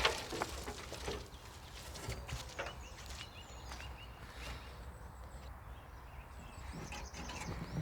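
Irregular footsteps and light knocks while wood chips are moved with a shovel and barrow, with a few short high chirps from small birds.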